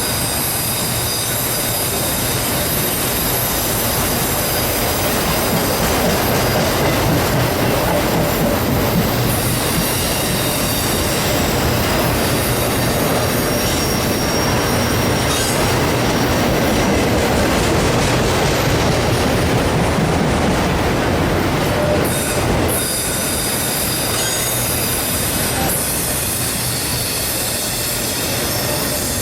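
Freight train rolling past, its steel wheels squealing against the rails over a steady rumble of the cars.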